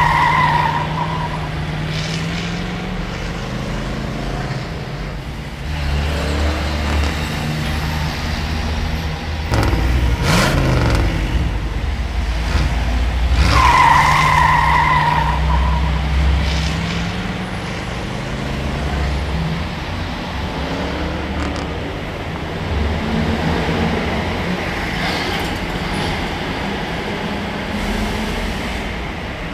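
Car engine sound running with rising revs, and a short high squeal-like tone at the start and again about 14 seconds in. The whole pattern repeats like a looped sound effect.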